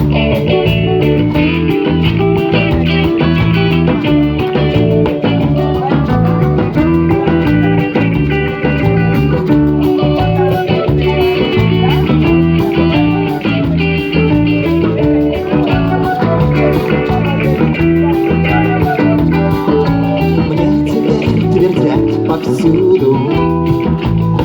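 Live reggae band playing an instrumental passage, with guitar to the fore over bass and drums.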